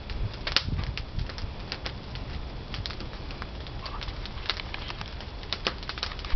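Pine firewood burning in a traditional wood-fired kiln: irregular crackles and pops over a low rumble of the fire.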